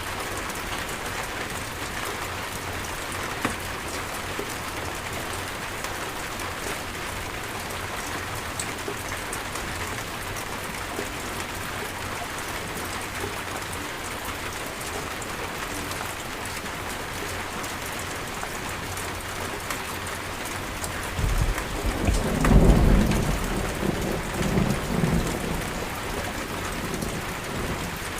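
Steady heavy rain falling on a surface, with a roll of thunder about three-quarters of the way through: a low rumble that builds, peaks and dies away over about five seconds.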